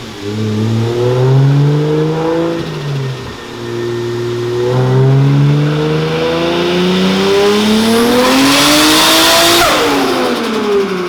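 Turbocharged car engine revving hard: a short climb in revs that drops back, then a long steady climb over about five seconds with a rising rushing hiss near the top, before the revs fall away near the end.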